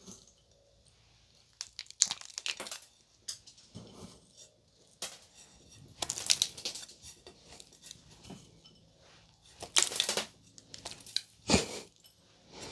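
Crinkling and rustling handling noises in irregular short bursts, the loudest about six, ten and eleven and a half seconds in.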